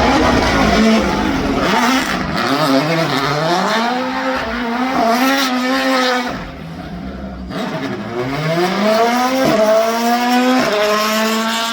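Race car engine accelerating hard through the gears, its pitch climbing and then dropping sharply at each upshift, several times over. The engine goes quieter for about a second around halfway before pulling hard again.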